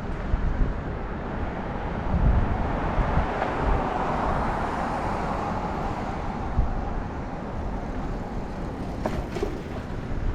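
A vehicle passing by over street ambience: a rushing noise swells over a couple of seconds, peaks near the middle and fades away.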